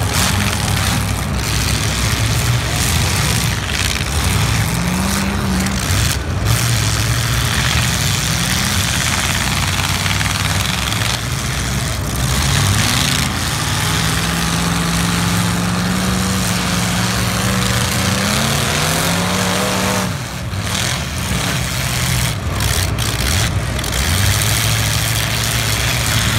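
Several demolition derby cars' engines running loudly together, revving up and down again and again over a continuous din.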